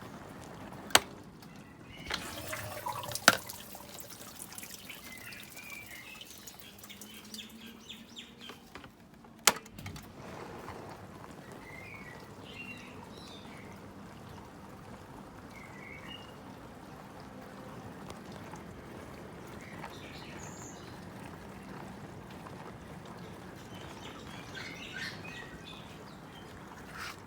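Miele dishwasher running, with water sloshing and trickling inside. Three sharp clicks come in the first ten seconds.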